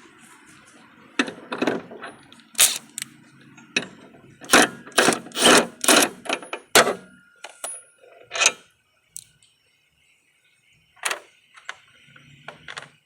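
Metal tools and hardware clinking and knocking against a mower deck's spindle assembly: a quick series of sharp metallic clinks through the first two-thirds, then a few scattered knocks near the end.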